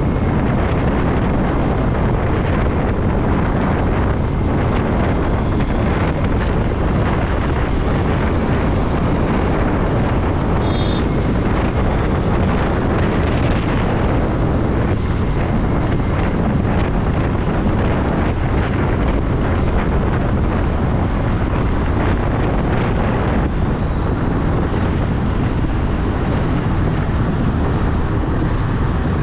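Riding motorcycle with wind rushing over the microphone, a steady noise over the engine and road; a short high beep sounds about eleven seconds in.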